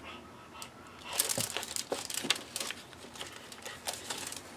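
Paper rustling and crinkling as the pages of a handmade junk journal are handled, starting about a second in as a run of small, quick crackles.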